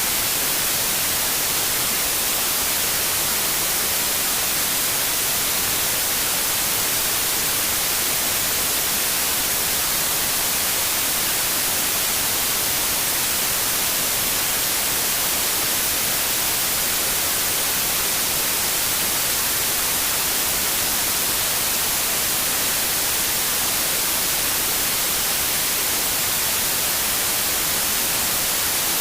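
Steady white noise: an even, unbroken hiss, bright and strongest in the highs, with no change in level.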